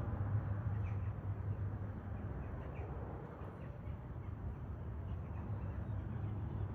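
Steady low rumble of distant jet aircraft, with a few faint short bird calls over it.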